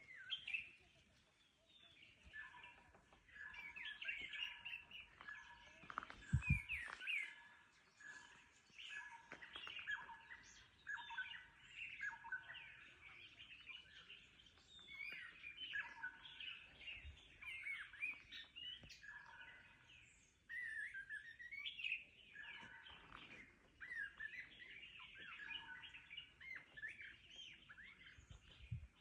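Several wild birds chirping and singing at once, a busy mix of short quick calls with held whistled notes repeating among them. A brief low thump about six seconds in.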